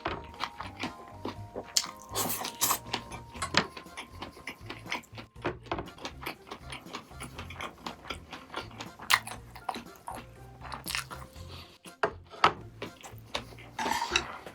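Close-up chewing and biting of food, with many short wet clicks and bursts, over light background music with a simple melody and a steady bass.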